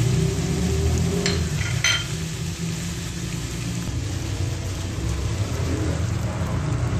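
Chicken pieces and spices sizzling in hot oil in a nonstick frying pan, over a steady low hum, with two short clinks between one and two seconds in. Water is poured into the pan near the end.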